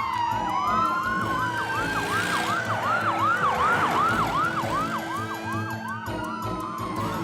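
Cartoon siren sound effect: a fast warbling yelp, about three sweeps a second, with a slower wailing tone gliding alongside, over background music.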